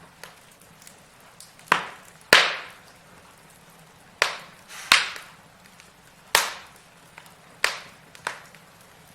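Wood fire crackling in a fireplace: burning logs giving sharp, loud pops every second or so, the loudest two a little under 2 s and about 2.3 s in, among fainter ticks over a low steady hiss.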